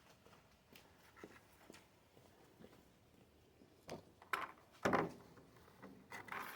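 Paint stripper being scraped and wiped off a metal pedal handle: faint light scrapes and ticks, then several louder scraping scuffs about four to six seconds in.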